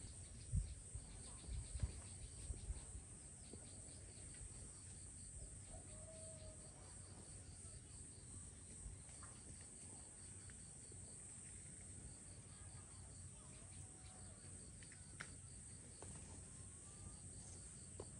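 Insects chirping in evenly pulsed trills that stop and start again, under a steady high hiss. A few dull thumps come in the first few seconds, and faint short calls are heard now and then.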